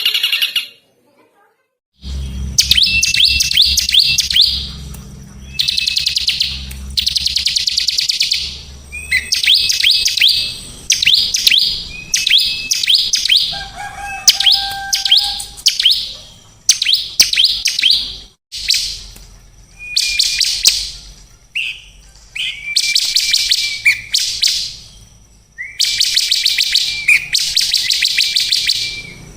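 Songbird singing in repeated bursts of rapid, high chirps and trills, each a second or two long with short pauses between them. A lower whistled note comes about halfway through, and a low thumping runs under the first few seconds.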